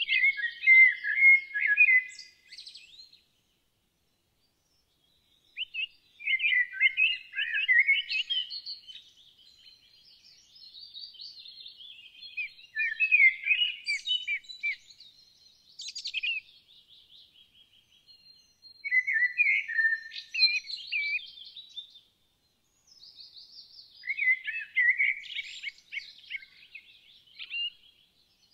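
Songbird song: bursts of quick chirping and warbling phrases, each a few seconds long, separated by short pauses.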